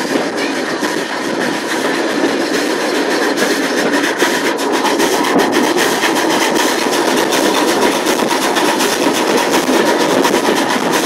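Passenger train hauled by the steam locomotive 34046 Braunton, a Bulleid West Country class Pacific, on the move, heard from an open carriage window: a steady loud rush of wheels on rail and passing air, dotted with many small clicks.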